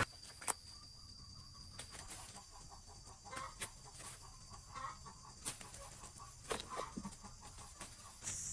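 Chickens clucking faintly now and then, with a few sharp clicks and a thin steady high tone that stops a little past halfway.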